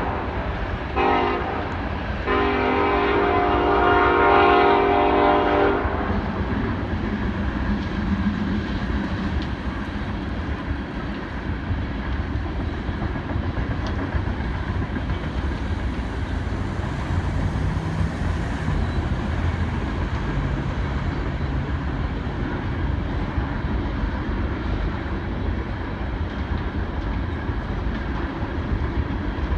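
Locomotive air horn on a BNSF coal train: a short blast, then a long one that ends about six seconds in. After that the coal train rolls past with a steady rumble of wheels on rail.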